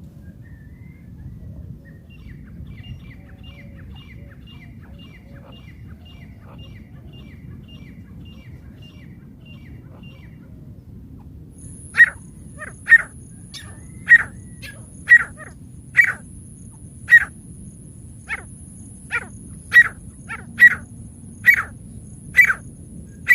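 Francolin (teetar) calling: a faint, quick run of chirps for the first several seconds, then loud, sharp, shrill calls repeated about once a second from about halfway through.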